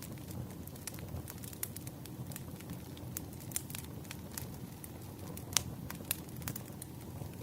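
Wood fire crackling: frequent irregular pops and snaps over a steady low rumble, with one louder snap about three-quarters of the way through.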